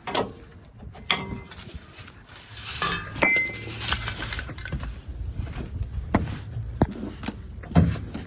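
Metallic clinks and knocks from working the spare-tire hoist and its wrench rod under a GM pickup while the freed spare tire is lowered. There are several sharp clanks, with brief ringing metal tones about one to four seconds in.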